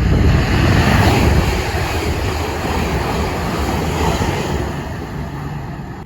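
A train passing at speed through the station: a loud rushing noise over a low rumble, dying away over the last couple of seconds.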